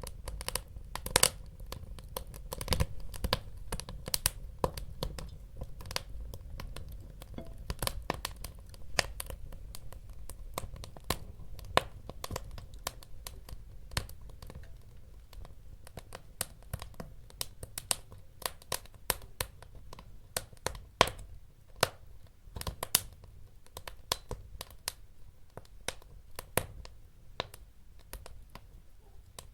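Wood fire burning in a fireplace: irregular sharp crackles and pops from the burning logs over a low steady rumble of the flames.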